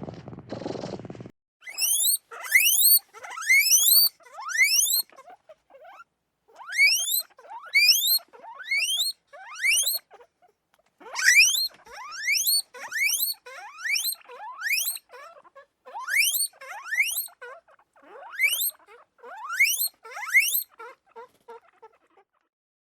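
An animal's high squeaks, each a quick upward-sliding call, repeated in fast runs with short gaps between them.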